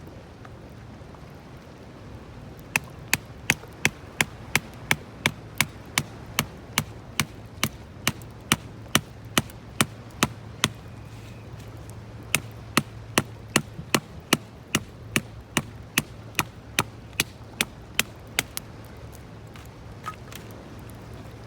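Sharp, evenly spaced knocks, about two and a half a second, in two long runs with a short pause between them, over a steady low hum.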